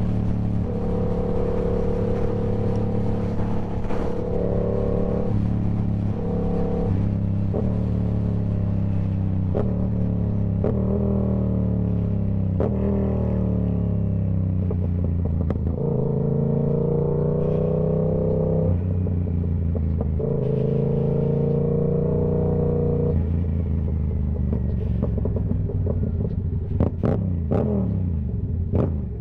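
Yamaha YZF-R7's parallel-twin engine running through a Toce full exhaust, its note holding steady, then changing in steps and gliding down in pitch as the rider accelerates and backs off in traffic. A few sharp cracks near the end.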